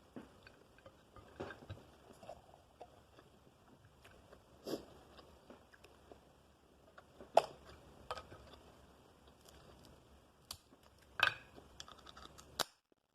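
Close-up chewing and biting on crab, with scattered crunches and cracks as crab shell is broken with the teeth; the loudest cracks come about five, seven and eleven seconds in.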